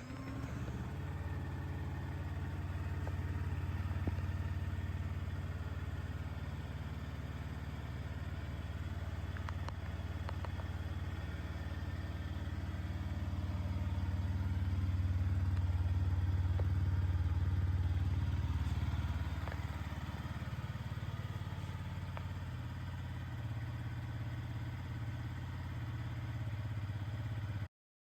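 Yamaha XSR125's single-cylinder 125 cc four-stroke engine idling steadily. It gets somewhat louder for a few seconds in the middle and stops suddenly near the end.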